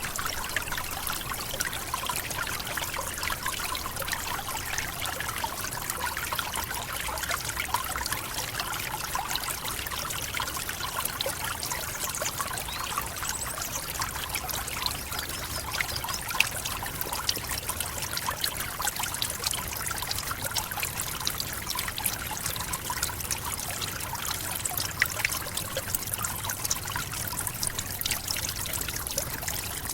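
Tropical forest waterfall: water falling and splashing in a steady rush, with many small splashes and trickles throughout.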